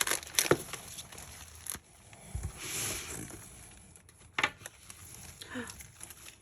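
Snack packets and paper shred being handled in a cardboard parcel: soft rustling and crinkling with a few sharp clicks and knocks.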